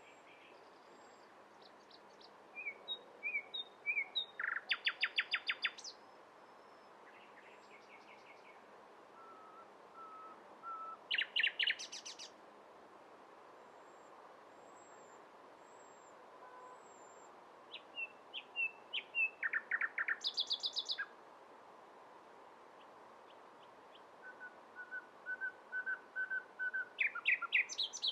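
A nightingale singing four separate phrases a few seconds apart, each made of fast trills of rapidly repeated notes. Some phrases open with a few soft drawn-out whistles that grow louder before the trill bursts in.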